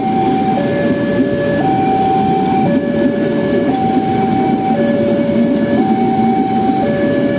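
A train passing with a steady, loud rumble, over which a level-crossing warning alarm alternates between a higher and a lower electronic tone, each held about a second.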